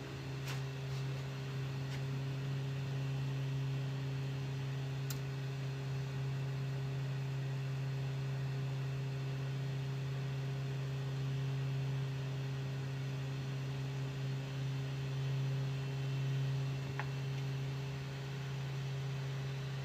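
Steady low electrical hum, unchanging, with a few faint clicks.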